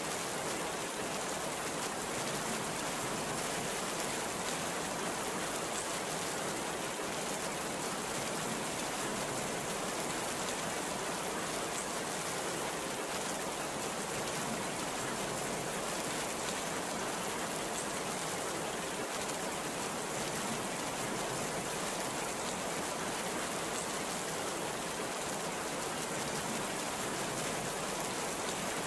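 Heavy rain falling steadily, an even hiss with no break or rumble of thunder.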